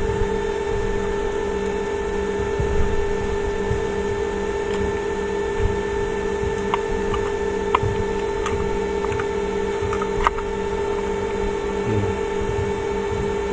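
A steady electrical hum, with a few light clicks and taps scattered through the middle.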